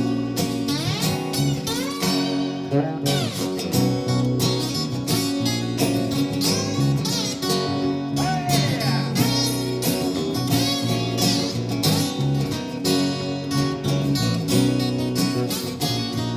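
A live band plays a guitar-led instrumental break in a blues-rock song: strummed guitar chords under a lead line of bending, gliding notes.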